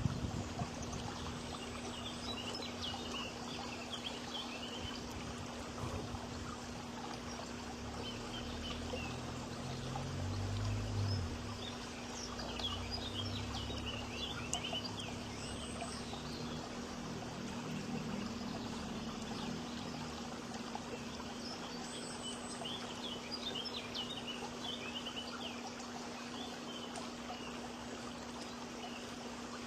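Small birds chirping in clusters of quick high chirps, several times, over a steady rushing background noise and a constant low hum.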